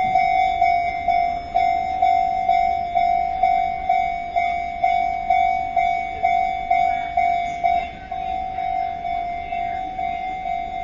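Railway level-crossing warning bell ringing steadily at about two strokes a second, with a low rumble beneath it. The strokes drop in level about eight seconds in.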